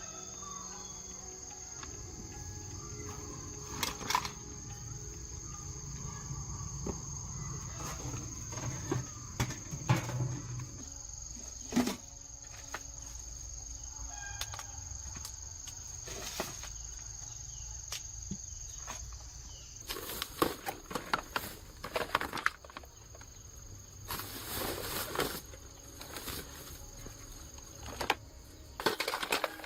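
Scattered sharp clicks and knocks, growing denser about two-thirds of the way through, over a steady high insect drone. Chickens cluck in the background near the start.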